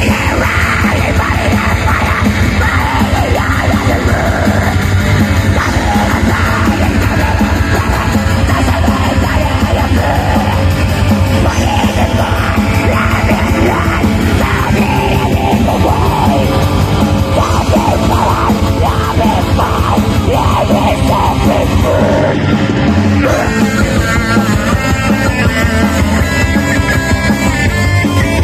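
Live metal band playing loudly and without a break.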